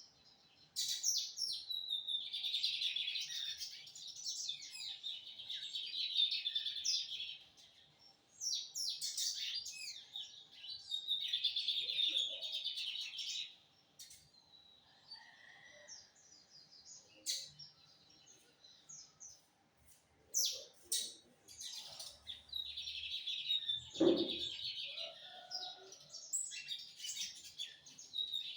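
Lined seedeater (bigodinho) singing: several song phrases of rapid twittering notes, each a few seconds long, separated by short pauses.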